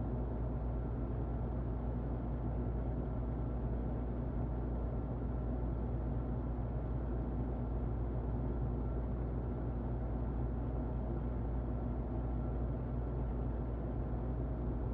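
Muffled electric fan running steadily: an even, low whooshing noise with a low hum and a faint steady whine above it.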